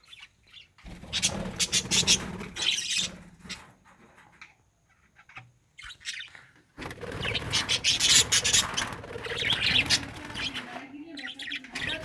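Small caged birds chirping in quick, dense chatter, in two spells: from about one to three seconds in and from about seven to eleven seconds in, with a quiet lull between.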